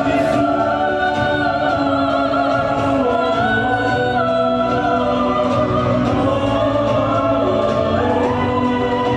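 A choir singing long held notes with vibrato over a musical accompaniment, from a stage musical's song.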